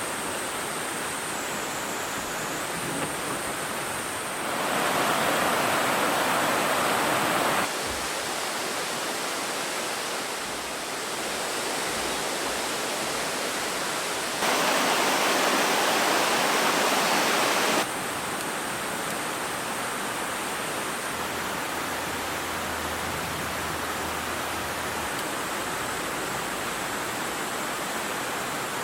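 Valley stream rushing steadily over rocks, a constant watery hiss. Twice, for about three seconds each, the water is suddenly louder and then drops back just as suddenly.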